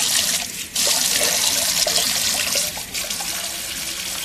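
Water running from a tap into a sink: a steady hissing splash that dips briefly about half a second in.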